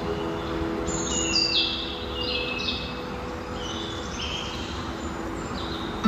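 Birds chirping, a quick string of short high calls through the middle stretch, over a faint held low note and a steady low background hum.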